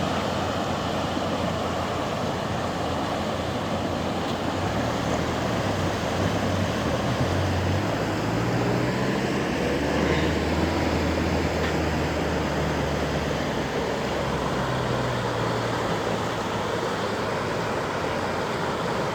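Heavy rain with a steady rush of water, and a vehicle engine running low underneath. The engine's pitch rises and falls from about five seconds in until about sixteen seconds.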